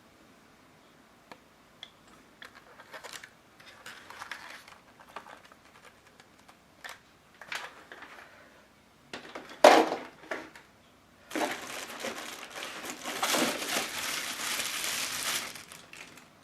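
Packaging being handled while a cordless vacuum cleaner is unpacked: scattered rustles and clicks, a sharp knock about ten seconds in, then several seconds of steady crinkling near the end.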